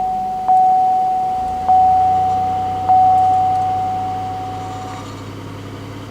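Dashboard warning chime in a 2008 Pontiac Grand Prix dinging three times, about a second apart, each ding ringing out and fading until it stops about five seconds in. Under it, the car's 3.8-litre V6 idles low just after a cold start.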